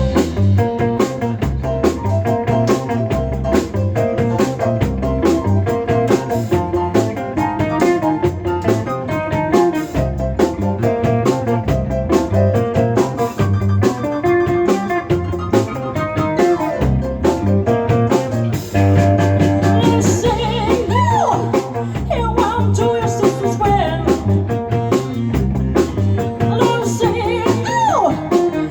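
Live band playing a blues-style song: guitar, bass and drums with a steady beat. About two-thirds through, a lead melody with sliding, bending notes comes in over the band.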